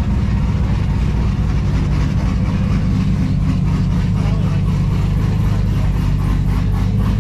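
Car engine running steadily with a deep, even rumble and no revving.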